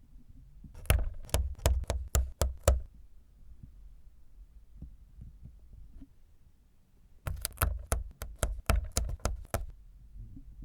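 Two bursts of quick, sharp hard taps, about four or five a second: one about a second in, lasting two seconds, and another about seven seconds in, lasting a little over two seconds.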